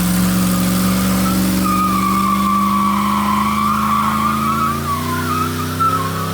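Car engine held at high revs while the rear tyres spin and squeal in a burnout. The squeal comes in about a second and a half in and wavers, and the engine note shifts a little near the end.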